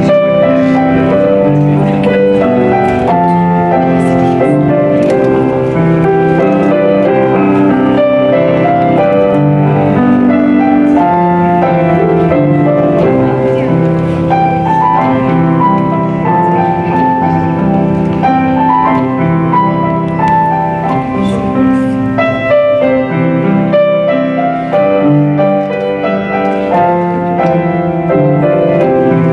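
Piano playing held chords with a melody moving above them.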